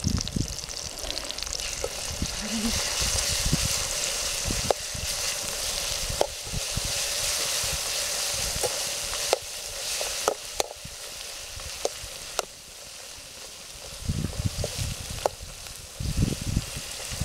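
Oil sizzling in an aluminium kadai as shallots and dried red chillies fry over a wood fire, stirred with a slotted metal ladle that scrapes and clicks against the pan now and then.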